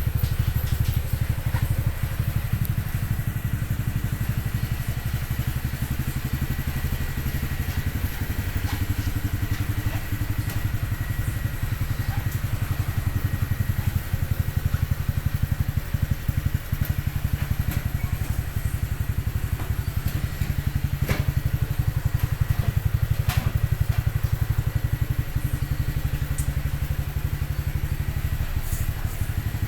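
Honda Cross Cub 110's single-cylinder four-stroke engine idling steadily through a Yoshimura aftermarket muffler, with a couple of sharp clicks about two-thirds of the way through.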